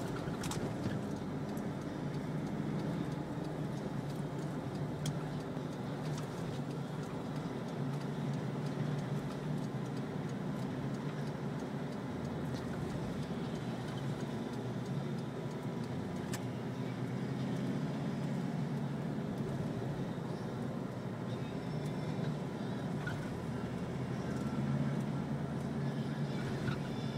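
Steady engine and road noise of a moving road vehicle, the low hum swelling and easing a little as it drives.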